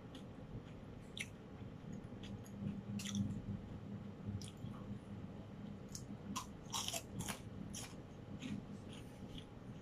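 A person chewing toasted French bread with butter, close to the microphone: soft crunches and mouth clicks scattered throughout, bunched together around seven seconds in, over a low steady hum.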